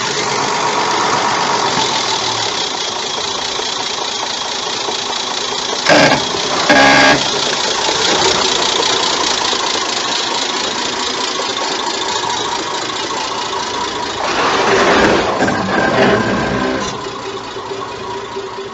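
Off-road vehicle engine running steadily under load as it goes over an obstacle, with two short sharp sounds about six and seven seconds in and a louder surge near the end.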